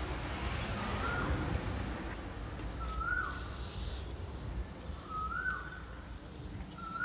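A bird calling four times, one short call about every two seconds, each rising then dropping in pitch. A few light clicks of wire ends being pushed into a breadboard come around the middle, over a low steady hum.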